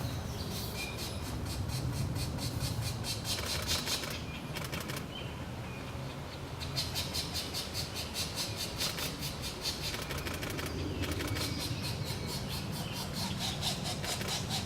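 Pileated woodpecker nestlings begging while being fed: long runs of rapid, rattling pulses that stop and start again twice, over a low steady hum.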